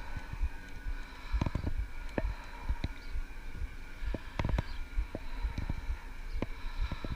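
Electric bike being ridden: irregular knocks and rattles over a low rumble, with a faint steady whine.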